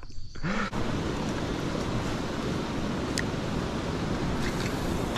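Steady rushing of water pouring over a river spillway, starting abruptly under a second in, with one short sharp click about three seconds in.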